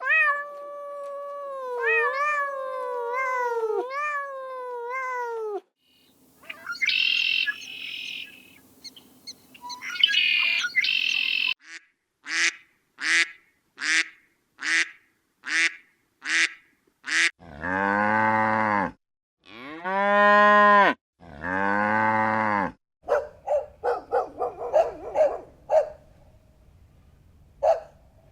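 Different animal calls, one clip after another: sliding pitched calls, rasping high calls, a quick series of short high chirps, then three long low moos from a cow, then a run of shorter calls.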